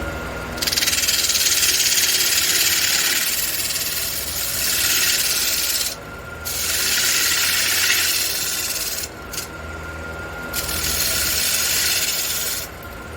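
Wood lathe running with a steady hum while a tool or abrasive is held against the spinning red cedar, making a loud hiss. The hiss comes in three long passes, breaking off about six seconds in and again around nine seconds, with a brief touch just after.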